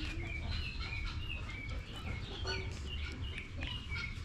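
Chickens giving many short, high chirps in quick succession, over a low rumble.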